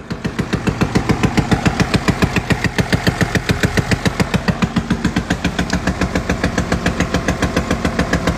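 Mercedes-Benz OM656 inline-six diesel idling with a loud, even knock about five or six times a second, the sign of failed rocker arms in the valvetrain.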